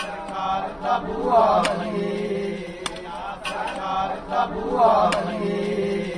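Islamic devotional chant: male voices chanting in long melodic phrases over a steady hummed drone.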